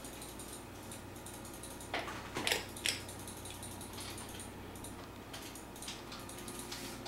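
Light, irregular clicking and small metallic rattles, with a cluster of louder knocks about two to three seconds in.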